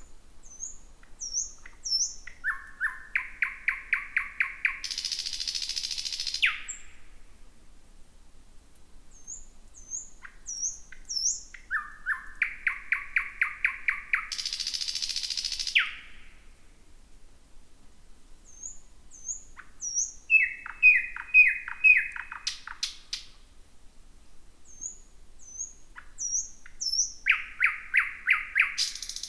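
Thrush nightingale singing: a series of song phrases, each opening with a few high whistled notes, then a fast run of loud, evenly repeated notes, in two phrases ending in a harsh rattle. About four phrases come several seconds apart, the last one still going at the end.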